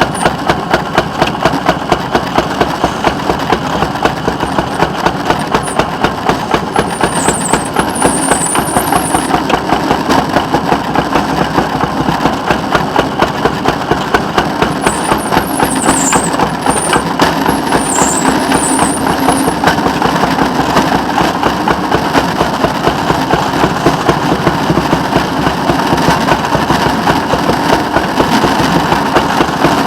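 Engine of rail vehicle WCRG 574 running steadily with a regular pulsing beat. Short high squeaks come in a few seconds in and again around the middle.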